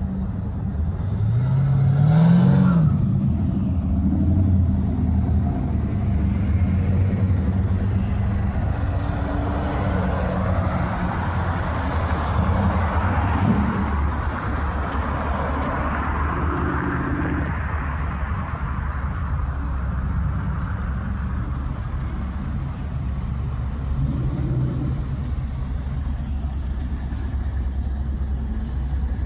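Car engine running with a steady low note, revved up briefly about two seconds in. A broader rushing sound swells and fades in the middle, like a vehicle passing close.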